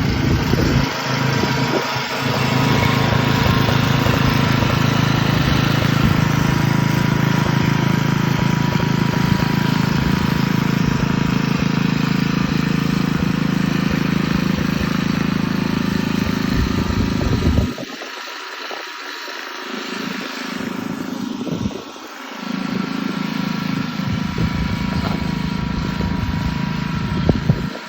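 Lawn mower engine running with a steady hum. About two-thirds of the way through, the low engine sound drops away sharply and the whole sound gets quieter, then partly returns a few seconds later.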